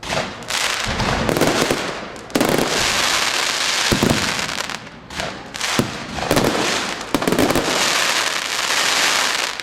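Fireworks display going off: dense, almost unbroken crackling with several sharp bangs spread through it.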